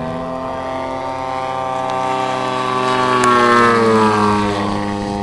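Engines and propellers of giant-scale radio-controlled model aerobatic planes running, with a steady lower drone. About three seconds in, one engine rises in pitch, then falls away.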